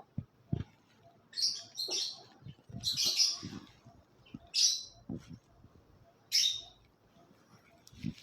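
Pet cockatiel and African lovebirds giving short, harsh chirps, about five spread over several seconds, with a few soft low knocks in between.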